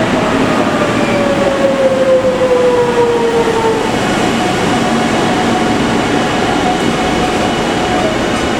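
Shirasagi limited express electric train running and slowing, with a steady rumble of wheels on rail. Its traction-motor whine falls in pitch over the first few seconds as it brakes.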